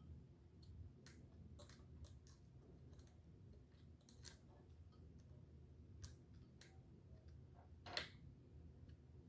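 Faint, scattered clicks and light taps of hand tools and parts being handled during minibike repair work, with one sharper click about eight seconds in.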